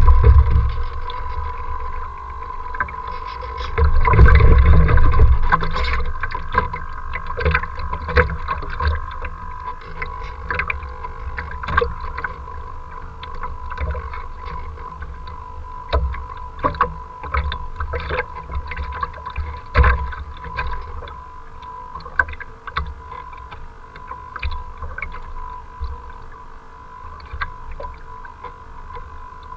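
Strong wind buffeting the microphone in gusts, loudest at the start and again about four seconds in, over choppy water splashing and slapping in many short hits. A steady thin whine runs underneath.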